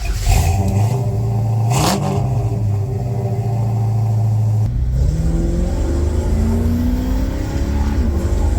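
Old 1957 car's engine running: a quick blip of the throttle about two seconds in, a steady stretch, then rising engine pitch from about five seconds in as it accelerates, dropping back near the end as a gear changes and climbing again.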